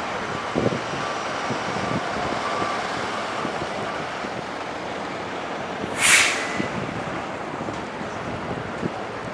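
A vehicle on the move: steady road and running noise, with a short sharp hiss about six seconds in.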